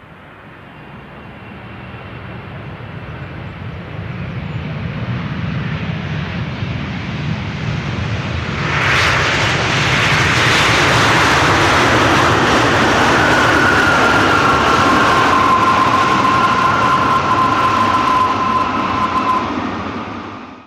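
Boeing 777 twin-jet engines growing steadily louder as the airliner comes in to land, with a sudden surge about nine seconds in and a steady high whine from the engines through the second half. The sound cuts off abruptly at the end.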